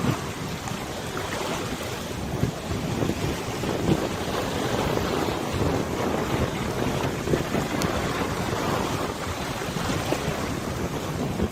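Wind gusting across the microphone over a wide river, with waves splashing and lapping against the water's surface in a continuous, fluctuating wash.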